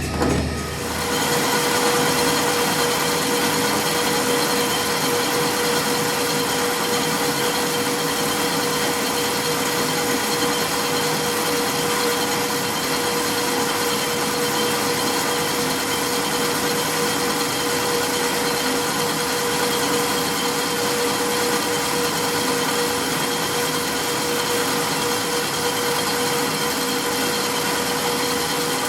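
A workshop machine's motor running steadily, with a constant hum and a broad hiss, coming up to speed in the first second.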